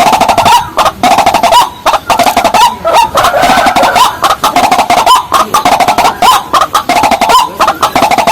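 Rails calling: a loud, continuous run of rapidly repeated short, clucking notes with sharp clicky attacks and no pause.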